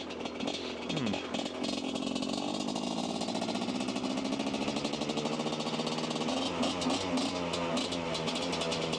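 Dirt bike engine running under way, its pitch dropping about a second in as it slows, then holding steady, with small rises and falls near the end.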